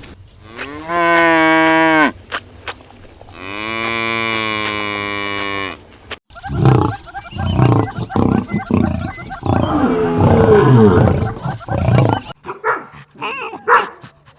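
Cattle mooing: two long calls, the first with a slight falling pitch, the second held steady. After a cut, a rougher, pulsing animal call runs for about six seconds, followed by short separate calls near the end.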